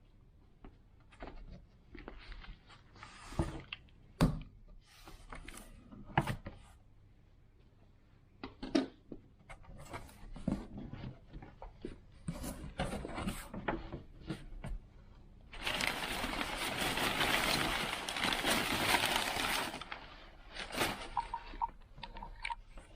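Cardboard box and packaging being handled during an unboxing: scattered knocks, clicks and scrapes, then a loud stretch of packaging rustling lasting about four seconds, about two-thirds of the way in.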